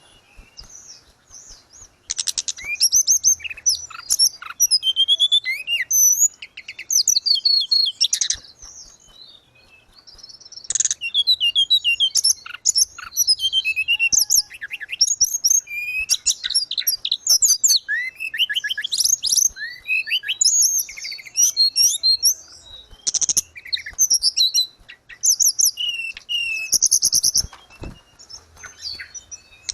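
Tledekan gunung songbird singing in rapid, high-pitched twittering phrases of quick chirps and glides, with short pauses between phrases.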